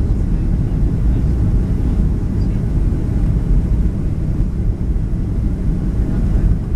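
Steady low rumble inside the passenger cabin of a Boeing 737-700 on approach: engine noise and airflow over the fuselage, with no change.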